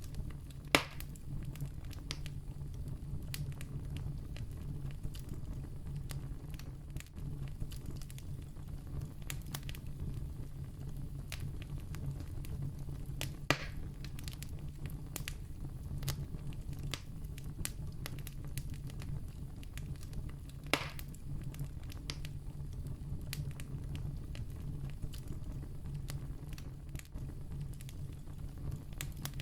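Wood campfire burning with a steady low rumble and frequent crackles. Three louder pops stand out: about a second in, about halfway through, and about two-thirds of the way through.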